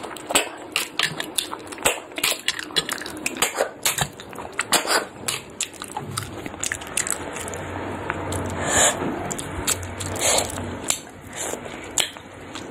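Close-miked mouth sounds of a person eating fish and snails by hand: wet chewing and smacking clicks in quick succession over the first half, then quieter chewing with a couple of louder wet bursts.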